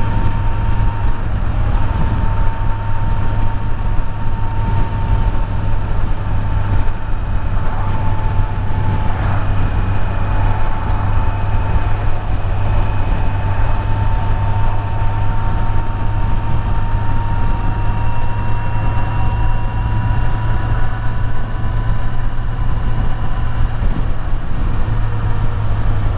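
Kawasaki Z900's inline-four motorcycle engine running steadily on the move, over a constant low rumble. A faint thin whine near the middle of the sound drifts slightly lower and then rises again toward the end.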